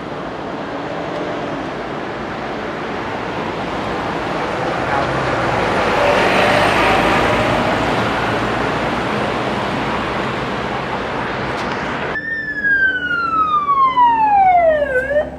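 Road traffic noise swells as a vehicle passes, peaking about halfway through. It cuts off suddenly near the end, and a siren then sounds one long tone that falls steadily in pitch over about three seconds.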